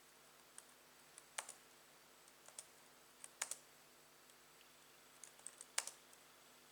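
A scatter of small, sharp clicks and taps, in ones and quick pairs at uneven intervals, over a faint room hum.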